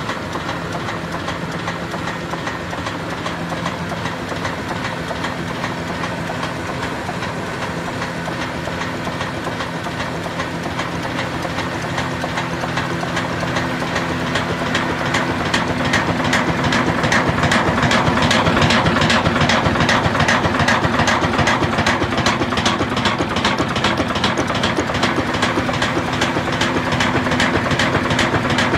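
Ruston Hornsby stationary diesel engine and mini flour mill machinery running together with a fast, even beat. The sound grows louder about halfway through, then holds steady.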